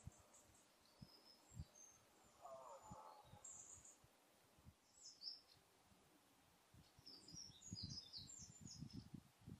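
Near silence with faint, scattered high bird chirps and a short warbling call about two and a half seconds in. Soft low thumps come more often near the end.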